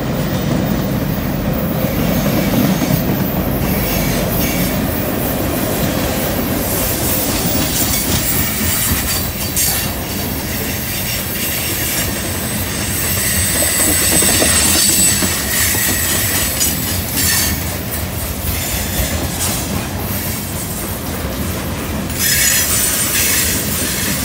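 Freight cars rolling past on a curve: a steady rumble of steel wheels on rail with the clack of wheels over rail joints. From about halfway through, a high-pitched wheel squeal rings out for several seconds as the wheel flanges grind through the curve, and briefly again near the end.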